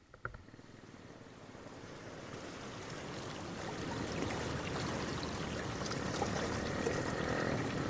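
Waterfall's rushing water, a steady splashing rush that grows steadily louder, after a short knock at the start.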